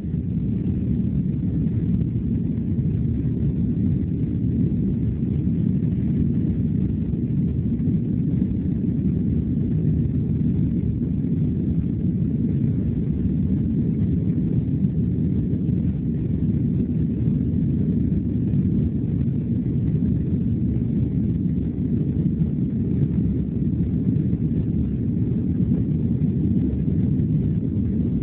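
Steady deep rumble of a Boeing 767-300 heard from inside the cabin during its takeoff roll: the twin jet engines running at takeoff thrust with the wheels rolling on the runway.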